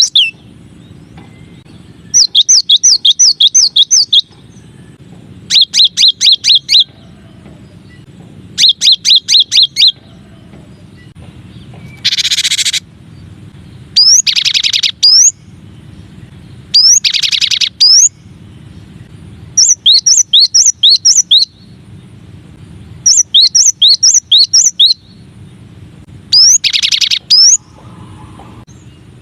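Cinereous tit (gelatik batu) singing: short bursts of rapidly repeated, high, falling whistled notes, one phrase every two to three seconds, with the note pattern changing between phrases. One phrase about twelve seconds in is a harsh buzzy call. A faint low hum runs underneath.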